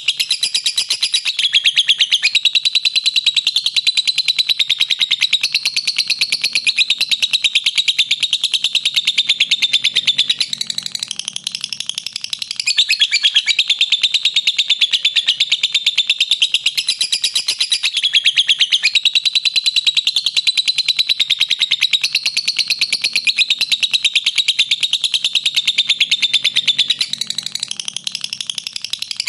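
Lovebird giving its long, rapid chattering trill (the 'ngekek panjang' song), a dense run of high, fast notes. It eases off briefly about two-fifths of the way in and again near the end.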